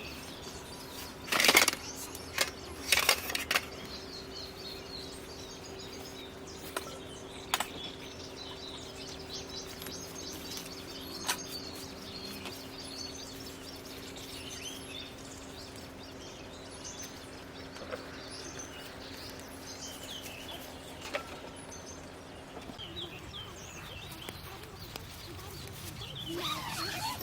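Birds chirping in the background, with a few sharp knocks or clicks in the first few seconds and a steady low hum that stops about 23 seconds in.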